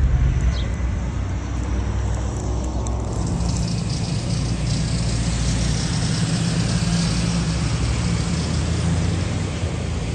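Motor vehicle running with a steady low rumble; a hiss of road noise comes in about three seconds in and carries on.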